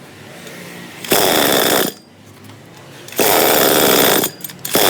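Small engine of a tree-cutting climber machine, running quietly and revved up hard three times in short bursts of about a second each, the last one starting just before the end.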